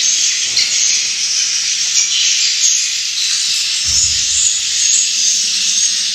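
Swiftlet calls: a dense, steady high-pitched twittering. A brief low thump comes about four seconds in.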